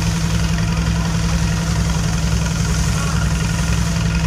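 Reciprocating air compressor rig running steadily, a loud low hum with a fast even pulsing throughout.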